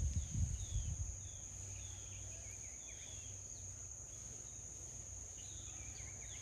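Steady high-pitched drone of crickets, with small birds chirping and whistling in short repeated notes over it. A low rumble sounds in the first second.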